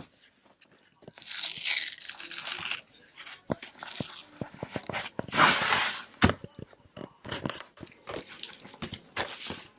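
Headphone packaging being handled and opened: two longer rustling, crinkling stretches with many sharp clicks and taps between them.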